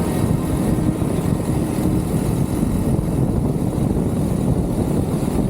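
Suzuki VanVan 200 motorcycle on the move: its single-cylinder engine running under a steady low rumble.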